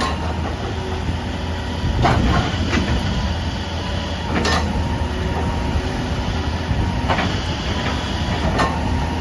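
Excavator's diesel engine running steadily, with a handful of sharp metallic clanks at irregular intervals.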